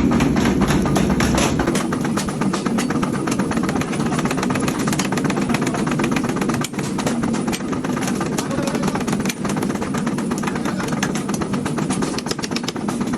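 Workshop machinery running steadily, with a rapid, even knocking over a low hum.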